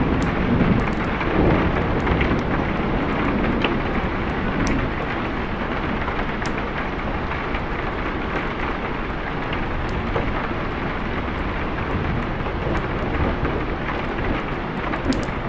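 Steady heavy rain, with a low rumble of thunder dying away over the first couple of seconds.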